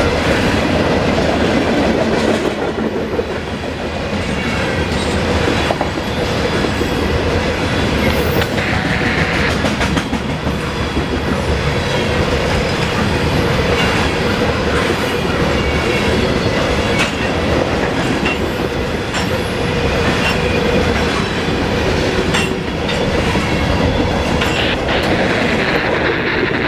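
Norfolk Southern freight train of covered grain hopper cars rolling past steadily, its wheels clicking over the rail joints; the last car goes by near the end.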